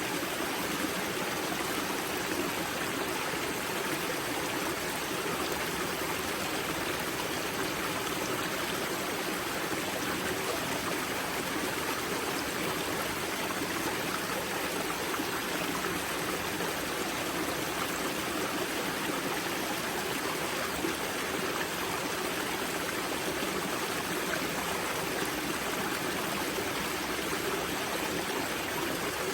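Spring-fed mountain river water flowing and rushing over rocks at its source, a steady, even stream sound.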